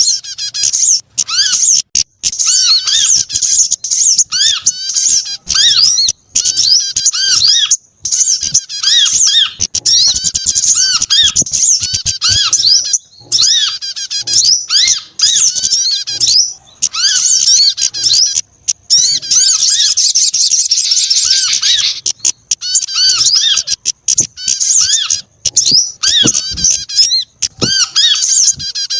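Bird-lure recording of small birds' calls, a mix of sogok ontong, kemade, korlap and prenjak (prinia), used to draw small birds in. Rapid, shrill chirps and squeaky rising-and-falling notes follow each other almost without pause, thickening into a dense trill about two-thirds of the way through.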